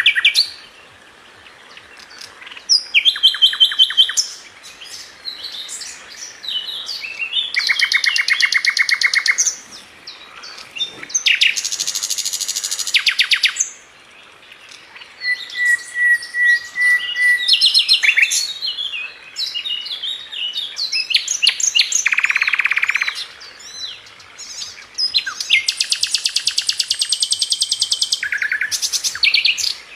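A flycatcher (the songbird sold as 'Sikatan London') singing a varied song: phrases of fast, buzzy trills alternate with sharp chirps, short sweeping notes and, about halfway through, a thin steady whistle, with brief pauses between phrases.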